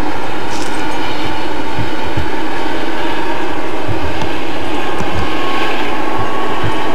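Chicago & North Western business train rolling past: a steady rumble of the cars on the rails, with irregular low thumps.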